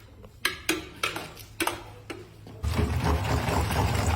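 A handful of sharp clinks or knocks, like utensils against cookware, then a steady rushing noise sets in suddenly about two-thirds of the way through.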